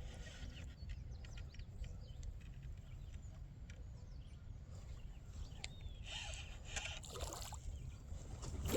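Faint water sounds on a steady low rumble, with scattered small clicks; a louder rustling patch comes about seven seconds in.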